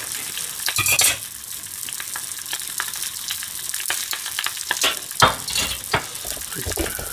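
Hot cooking fat sizzling steadily, with scattered clicks and knocks of a metal spatula against a fish-grill rack and a plate, and a few heavier knocks about five to seven seconds in.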